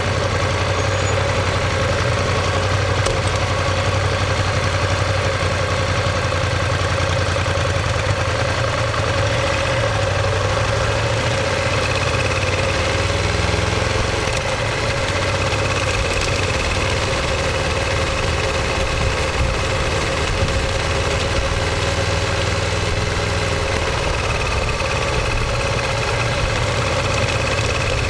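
Ducati Monster 1200S's L-twin engine and exhaust running at a steady, low engine speed with no revving, its note holding even throughout.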